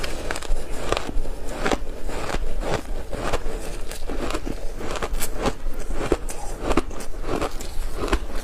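Close-up bites into a block of frozen ice coated in matcha powder, crunching and cracking in a dense, irregular run of sharp crunches, over a steady low hum.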